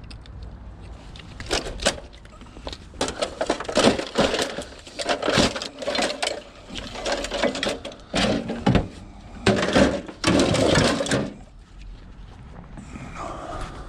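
A washing machine being pulled apart by hand with snips to get its copper motor out: a quick run of sharp metal and plastic knocks, cracks and rasps. It goes quiet about eleven and a half seconds in.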